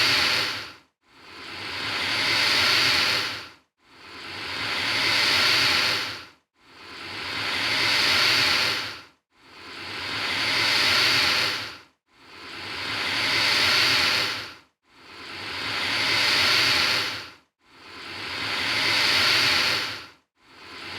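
Alligator hissing over and over at an even pace: each breathy hiss swells for about two seconds and then cuts off abruptly, one roughly every three seconds.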